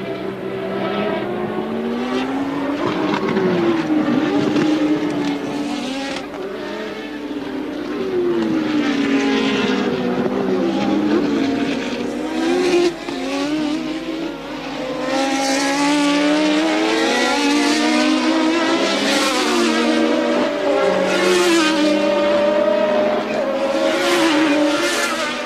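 Early-1980s Formula One racing cars at full race speed, several at once, their engine notes repeatedly rising and dropping as they accelerate, shift gears and brake.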